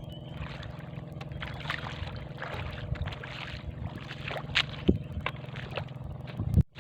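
A small engine running steadily at an even pitch, with a few sharp knocks over it.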